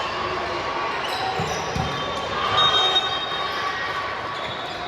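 Ball bouncing on a hard gym floor a few times, with a constant background of voices and short high squeaks in an echoing gym.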